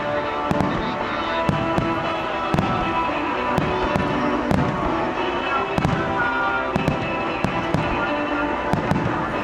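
Aerial fireworks bursting in a steady run of irregularly spaced bangs, about one to two a second, with music playing underneath.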